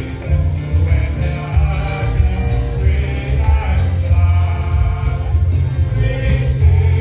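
Gospel music: a group of voices singing over a steady, heavy bass line with light percussion.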